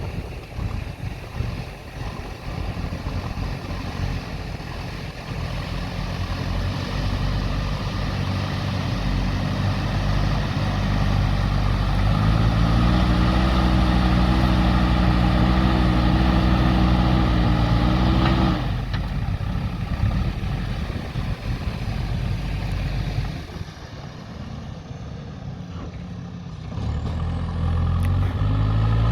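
JCB 3DX backhoe loader's diesel engine working. It revs up and holds high for several seconds, drops back abruptly to a lower, rougher running, and picks up again near the end.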